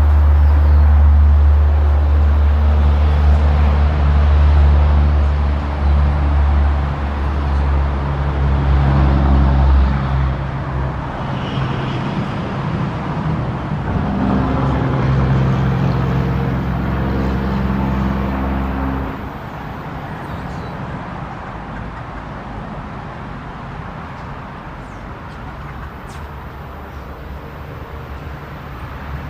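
A motor vehicle engine running close by, a low steady hum whose pitch shifts, that stops about two-thirds of the way through, leaving quieter distant traffic noise.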